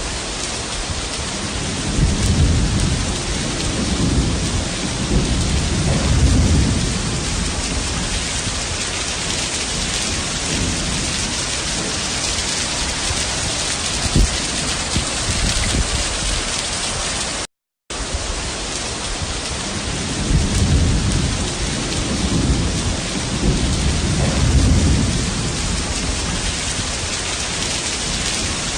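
Heavy rain pouring steadily, with low rolls of thunder swelling a few seconds in and again about twenty seconds in. The sound cuts out for a split second just past halfway.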